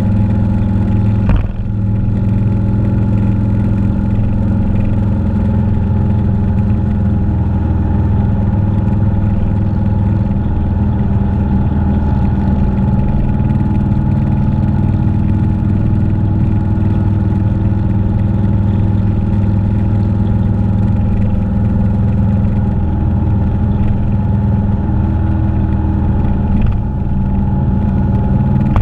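Motorcycle engine running steadily under way, with a brief drop in its note about a second in and again near the end.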